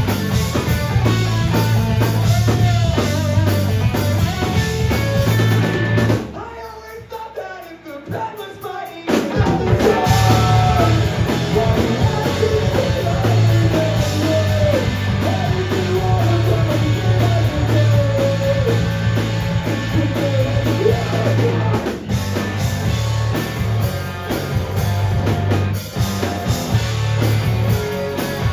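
Live rock band playing a song: drum kit, guitars and bass with sung vocals. About six seconds in the band drops almost out for a few seconds, then crashes back in at full volume around nine seconds in.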